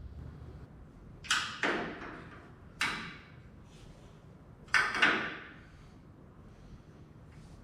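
Five sharp knocks, each with a short fading tail: two close together about a second in, a single one near the middle, and another close pair about two-thirds of the way through. A low steady hum runs underneath.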